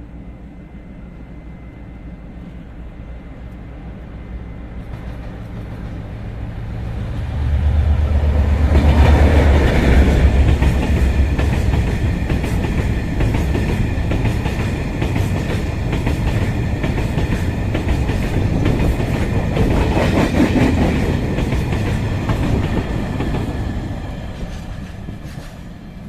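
A train approaching and passing close by: the rumble builds over the first several seconds, is loudest about eight to ten seconds in with a deep engine hum, and runs on with rapid clacking of wheels over the rail joints before fading near the end.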